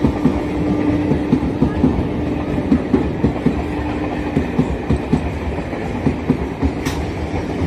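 EMU local train running through the station without stopping, its wheels clattering rapidly over the rail joints beneath a steady rumble. A steady hum runs alongside and stops about four seconds in.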